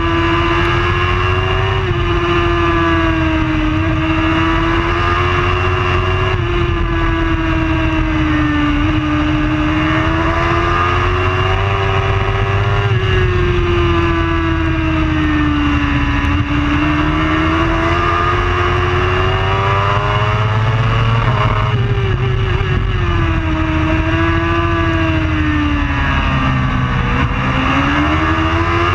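Superbike engine running without a break, its note rising and falling slowly over a steady low rumble.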